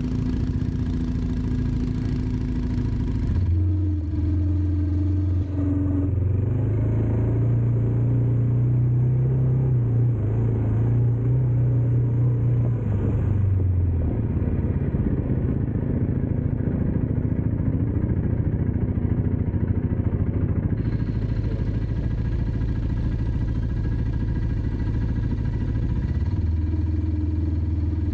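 Dirt bike engine running under throttle, its revs stepping up a few seconds in, holding higher for several seconds, easing back about halfway through and climbing again near the end.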